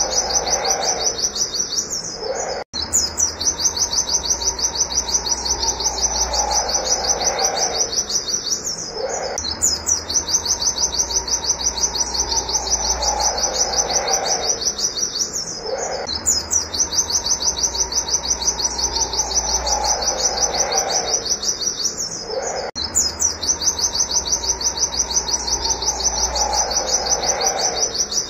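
White-eye (pleci) singing a fast, monotonous string of high 'wit wit' notes in long phrases of several seconds, broken by short pauses.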